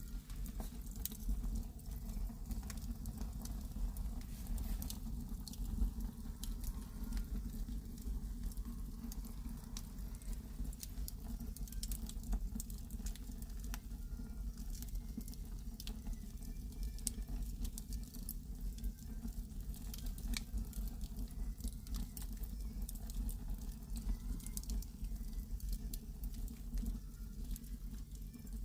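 Wood fire burning indoors: irregular crackles and pops over a steady low rumble.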